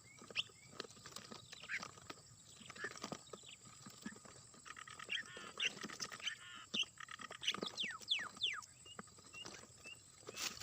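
Birds calling: a busy mix of short chirps, repeated short notes and quick downward-sliding whistles, with a fast rattling trill about halfway through.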